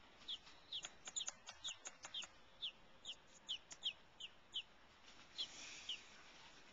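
Baby American robin nestling peeping: short, high chirps that slide downward in pitch, about two a second, with a brief pause a little after the middle. These are the nestling's begging calls.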